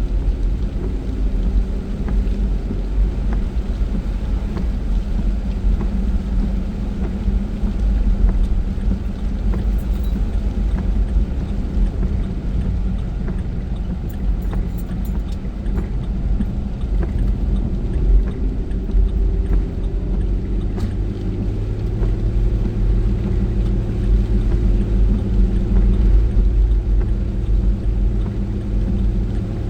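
A car being driven, with a steady low engine and road rumble. The engine note changes about twenty seconds in.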